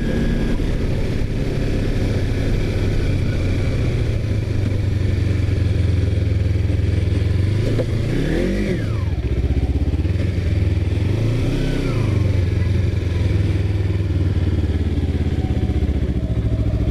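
Kawasaki Ninja 250R parallel-twin engine running under way. The revs rise and drop about halfway through, and again more gently a few seconds later. The sound cuts off abruptly at the end.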